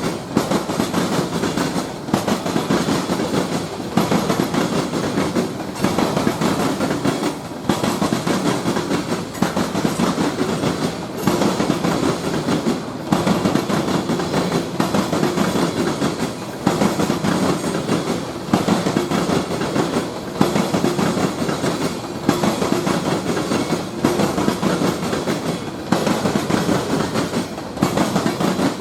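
A train of railroad cars rolling past at steady speed, wheels clacking over the rail joints, with a brief dip in the sound about every two seconds.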